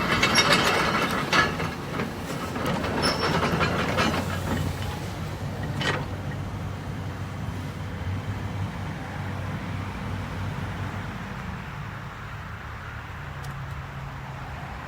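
Demolition of a building by heavy machinery: wall debris crashing and scraping with sharp impacts for the first six seconds, ending in one sharp crack. After that the machine's diesel engine runs steadily as the noise dies down.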